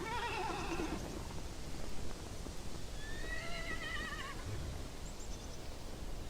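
A horse whinnying twice, each call wavering and falling in pitch: one right at the start and a second, higher one about three seconds in.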